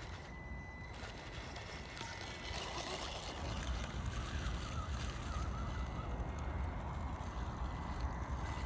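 Small electric RC off-road car running over rough ground: a faint wavering motor whine over a noisy rustle and low rumble that grow louder a few seconds in.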